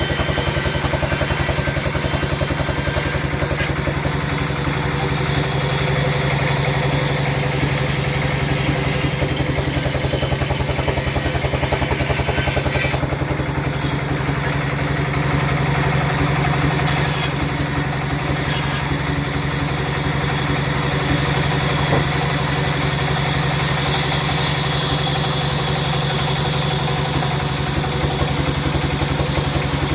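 Sawmill saw machine running steadily: a low, engine-like hum with a fast, even pulse.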